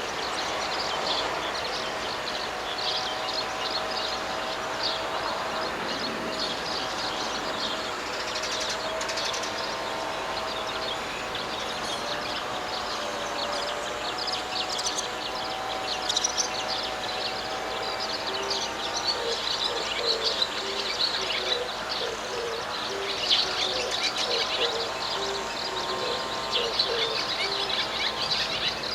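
Rice paddy ambience: many birds chirping throughout over a steady, drawn-out droning chorus, with a run of short, low repeated calls in the second half.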